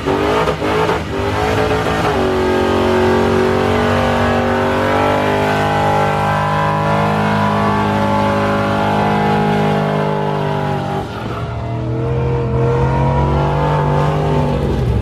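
A car engine held at high revs in a burnout, its pitch steady for several seconds over the hiss of spinning tyres. About eleven seconds in the note drops, then climbs again.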